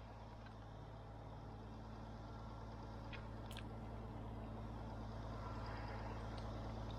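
A mobile crane's engine runs steadily and grows gradually louder as it takes up the cable. Faint clicks come about three and a half seconds in.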